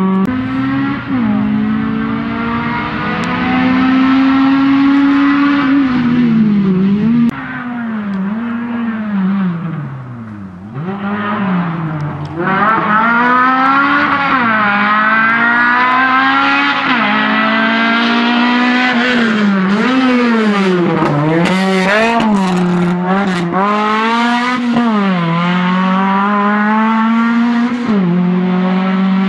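Honda B18C4 DOHC VTEC 1.8-litre four-cylinder in a Civic, driven hard on a race track. The engine pitch climbs and drops again and again as it revs, shifts and lifts through corners, going quieter for a few seconds around ten seconds in.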